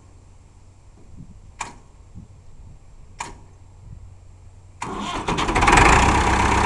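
A 1968 Massey Ferguson 165's diesel engine suddenly catches about two-thirds of the way in and quickly builds to a loud, steady run after a hard start. A few short sharp clicks come before it.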